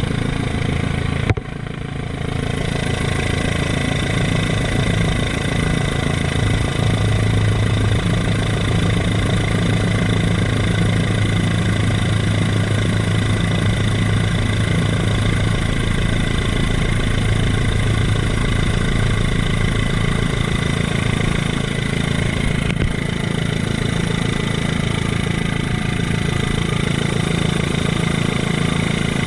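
Helicopter engine and rotor running steadily in flight: a loud low drone with a steady high whine over it. A brief sharp click about a second and a half in.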